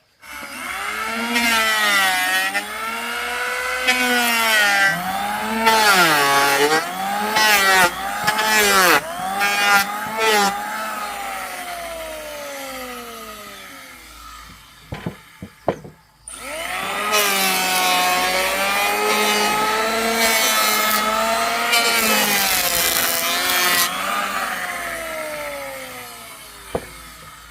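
Handheld electric saw cutting wood: a motor whine whose pitch dips each time the blade bites into the wood, winding down about eleven seconds in, followed by a few knocks and a second cut of about seven seconds that tails off.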